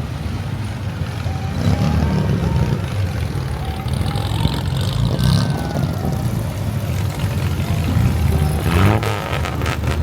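Car engines running with a low, steady rumble, one revving up near the end.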